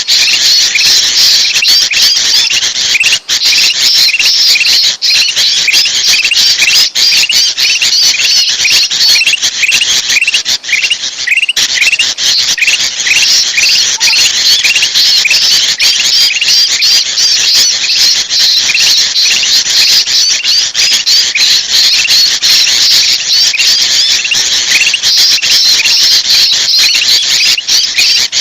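A dense, loud chorus of excited bulbul calling, with agitated kutilang (sooty-headed bulbul) chatter layered with kutilang emas calls. Many short notes overlap in a continuous racket that dips briefly about 11 seconds in. This is a bird-trapping lure recording, meant to draw bulbuls and other small birds.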